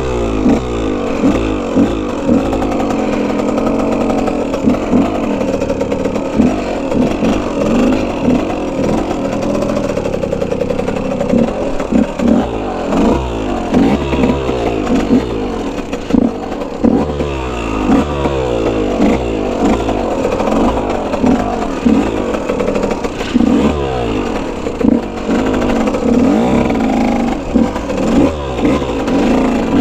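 Dirt bike engine being ridden, revving up and falling back over and over as the throttle is worked, with frequent short clattering knocks.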